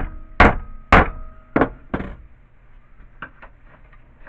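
Hammer blows flattening a strip of aluminum: five sharp strikes in about two seconds, each with a brief metallic ring, then a couple of light knocks.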